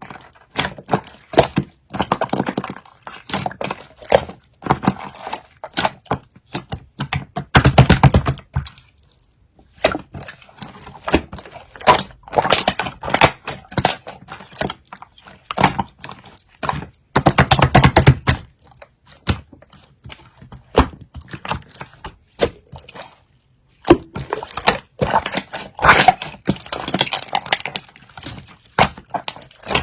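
Irregular clicks and knocks, some bunched into dense rapid runs of crackling.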